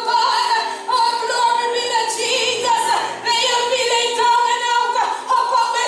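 Women's voices singing long held notes with vibrato, a church song.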